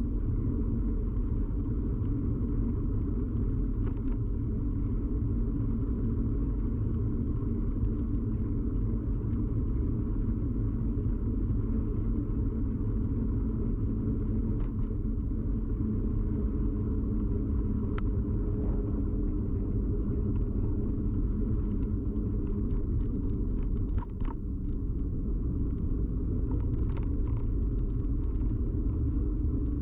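Steady low rumble of a bicycle ride picked up by a camera clamped to the bike: road and frame vibration carried through the mount, with a few sharp clicks and a brief dip about 24 seconds in.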